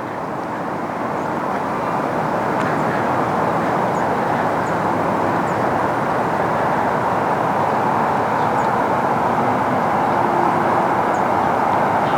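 Steady noise of a distant vehicle, slowly growing louder.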